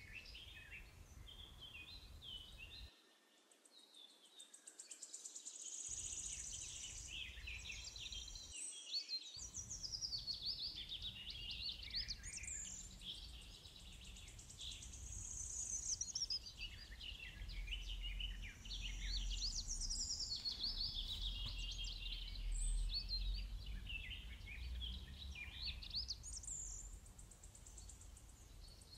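Small birds chirping and singing continuously, many short calls rising and falling in pitch, over a faint low hum.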